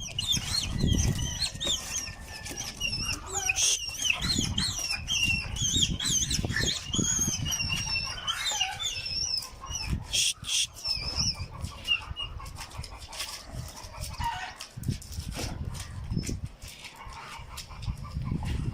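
Birds chirping in many short, quick, high calls, thickest in the first half and thinning out after about eleven seconds. Low rumbling noise on the microphone comes and goes throughout.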